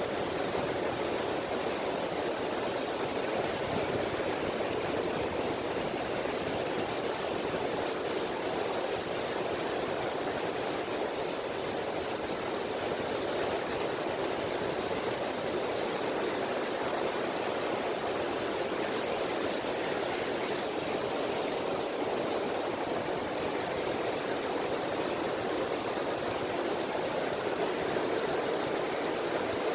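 Gentle ripple waves of the Seto Inland Sea washing on a beach: a steady, even wash of water with no single big break standing out.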